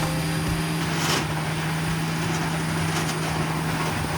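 Rotochopper B66T wood grinder running steadily under load: a constant engine hum with a dense grinding noise over it.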